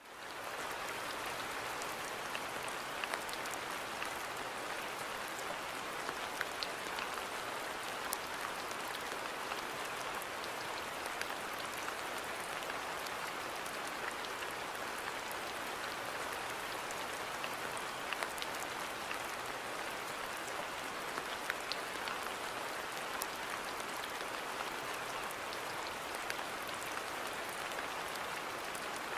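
Steady rain falling in a garden: an even hiss with scattered sharp ticks of single drops, fading in from a brief silence at the start.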